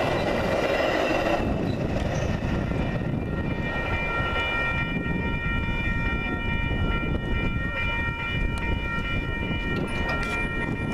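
Metra bilevel commuter train rumbling through the grade crossing, its sound dropping away about a second and a half in as the last car clears. A steady ringing from the crossing's warning bell follows and carries on while the signals keep flashing.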